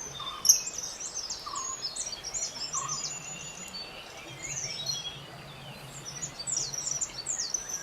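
Birds chirping and singing: a busy stream of short, high, quickly rising and falling notes that thins out briefly in the middle and picks up again near the end, over a faint low hum.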